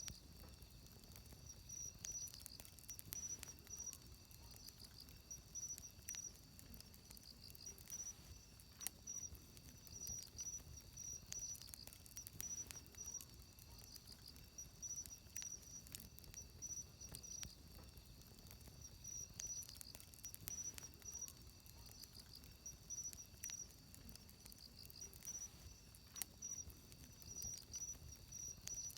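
Wood fire crackling with scattered sharp pops. Behind it, insects chirp in a continuous high, pulsing trill.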